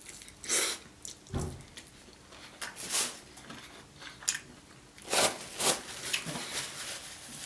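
Close-up biting and chewing of sauced fried chicken, tearing the meat off a drumstick bone, heard as a string of separate short smacking bites. Paper tissue rustles in a cluster of louder crinkles about five seconds in.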